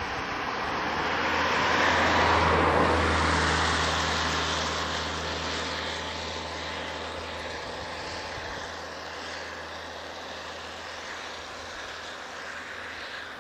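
A motor vehicle passing by: engine drone and noise swell to a peak about two to three seconds in, then slowly fade away.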